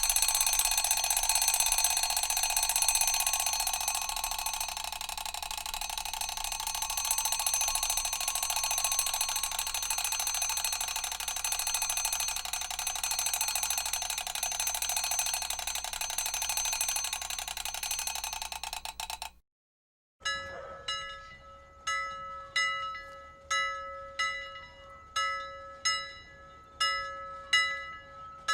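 An alarm bell rings continuously and rapidly, then cuts off about 19 seconds in. After a short gap, a bell is struck repeatedly, about once a second, each ding ringing out and fading.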